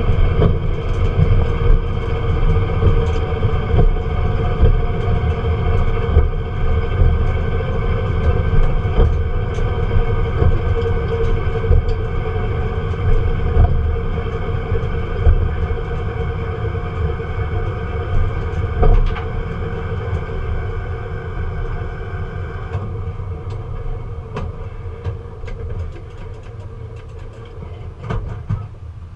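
A vehicle engine running, heard from inside the cab: a steady low rumble that slowly weakens as the engine dies, thinning out further about 23 seconds in.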